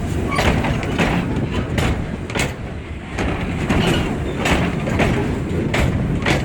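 The Cockle Train heritage train running past, a steady rumble broken by sharp knocks about every half second to a second.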